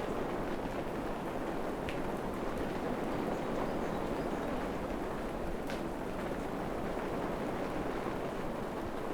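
Steady rain falling in a forest, an even hiss with a few louder single drops, one about two seconds in and another near six seconds.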